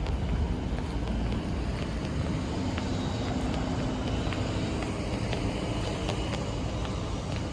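Steady low vehicle rumble with scattered faint clicks.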